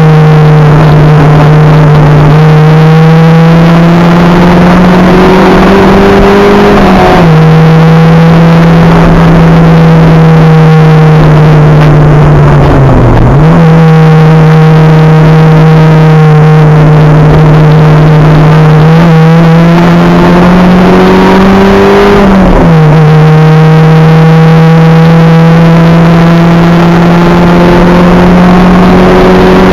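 Acura Integra race car's four-cylinder engine running loud under hard throttle, heard on board. Its pitch climbs slowly, drops sharply with a gear change or a lift about a quarter of the way in, near the middle and about three quarters of the way in, then climbs again.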